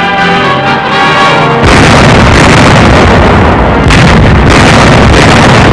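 Orchestral music with brass, then about one and a half seconds in a loud, continuous roar of artillery fire and explosions takes over, as on an old wartime film soundtrack.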